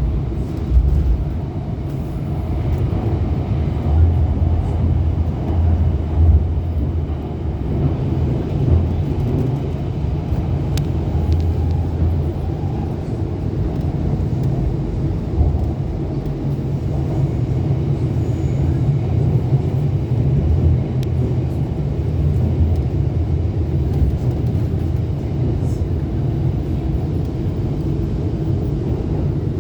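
Metro train running between stations, heard from inside the car: a steady low rumble that swells and eases.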